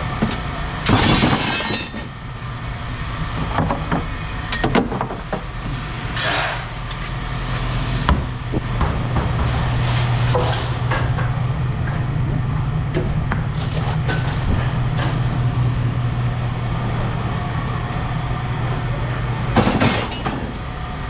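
A steady engine hum, with scrap metal clanking and clattering several times as pieces are handled and dropped.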